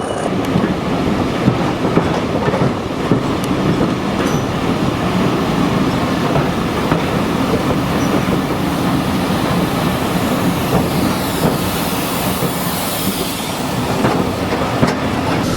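Train rolling past on the rails, its wheels clicking over rail joints with a faint squeal, a steady rumble throughout.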